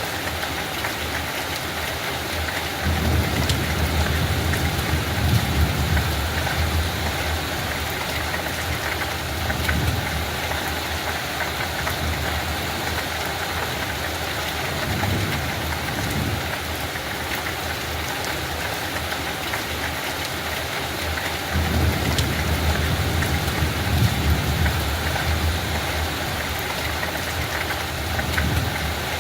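Light rain falling steadily on a field, an even hiss. Low rumbles swell and fade several times, the longest a few seconds in and again about two-thirds of the way through.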